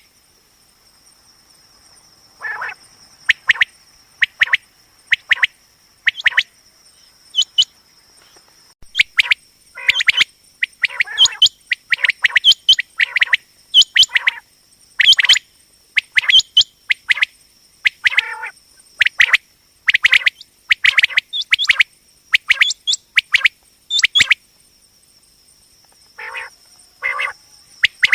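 Common quail calling: short, sharp call notes repeated in quick runs, sparse at first, then coming thick and fast for most of the stretch before a brief pause and a few more calls near the end. A faint steady high tone runs underneath.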